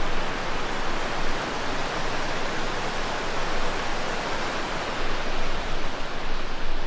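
The Cascade River rushing: a steady, even water noise.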